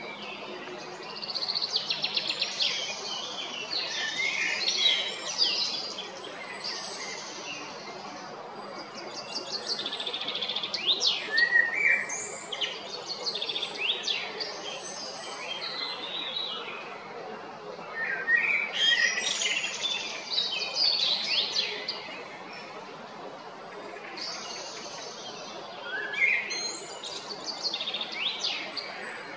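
Songbirds singing in phrases a few seconds long, separated by short pauses; each phrase is a run of high chirps, trills and quick sweeps.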